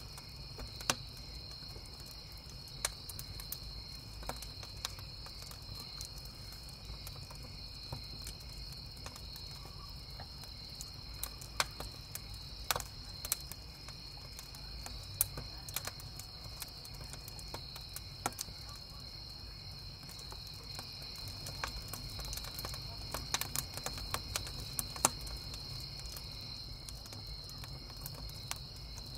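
Crickets chirping in a steady, continuous high-pitched drone, over a wood campfire crackling with irregular sharp pops, which come thicker near the end.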